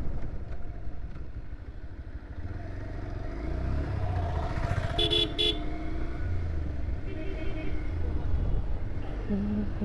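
Motorcycle riding along a road: low engine and road rumble throughout. A vehicle horn honks twice in quick short blasts about five seconds in, and a fainter horn sounds around seven seconds.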